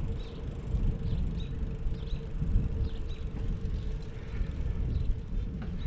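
Wind and road noise on a GoPro's microphone during a bicycle ride, a steady low rumble with a faint steady hum and small high chirps.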